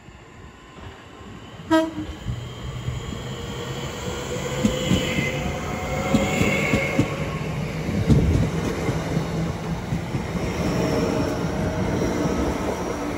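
Southeastern Class 465 Networker electric multiple unit departing. A short horn toot comes about two seconds in, then the train's running noise and wheel clicks build and stay loud as it pulls away.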